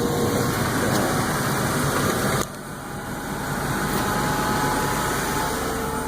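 Buick LeSabre's 3.8-litre V6 idling steadily after a cold start at about −6 °F. The sound drops suddenly about two and a half seconds in, then slowly builds back.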